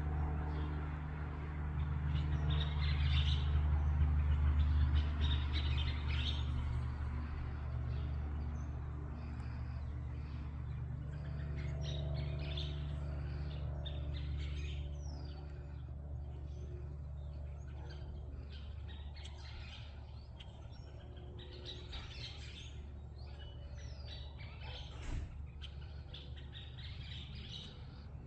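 Small birds chirping and twittering throughout, many short calls, over a low steady hum that is loudest in the first half and eases off after about fifteen seconds.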